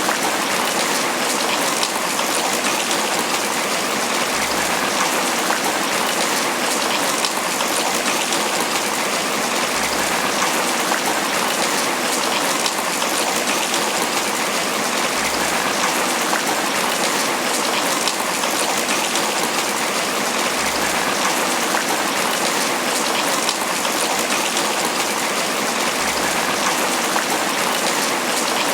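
Steady tropical rain falling on banana leaves: a constant, even hiss of rain with many separate drops striking the leaves.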